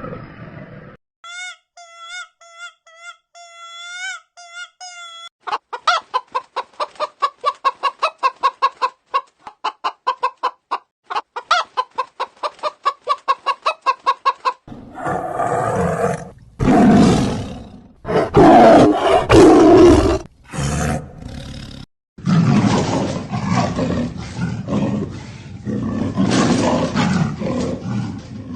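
A run of different animal calls. First comes a string of short, high, pitched chirps. Then there are several seconds of rapid, evenly repeated short calls, and last come loud, harsh calls.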